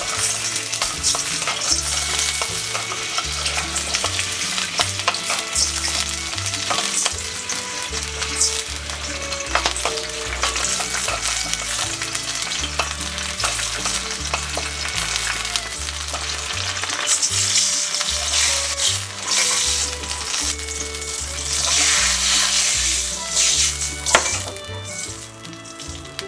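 Garlic, ginger and scallions sizzling as they fry in hot oil in a stainless steel pot, stirred with a wooden spatula that clicks and scrapes against the pot. The sizzle grows louder and rougher in the last third as soy sauce goes into the hot oil.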